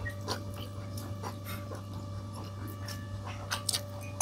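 Close-up eating sounds: soft chewing and small mouth clicks over a steady low hum, with one sharp knock right at the end.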